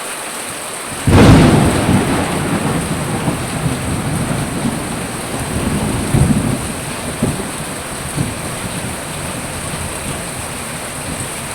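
Heavy rain falling steadily, with a sudden thunderclap about a second in that rumbles on for several seconds, and more rumbling around six seconds in.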